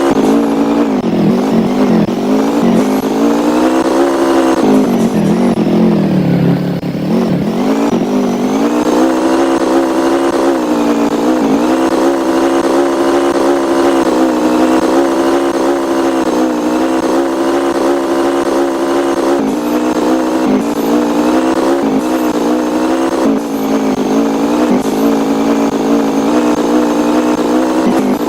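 A motor vehicle's engine running continuously, its pitch dipping and coming back up twice near the start and then holding steady, as when slowing and speeding up again.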